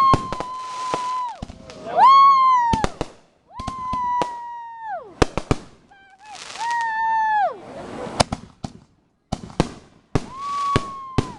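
Fireworks going off: a run of sharp bangs and crackling pops, mixed with about five whistling fireworks. Each whistle holds one high tone for about a second, then drops away in pitch.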